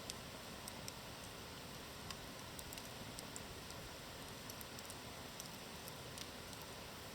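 Wood campfire burning with a soft steady hiss, crackling with sharp pops and snaps at irregular intervals.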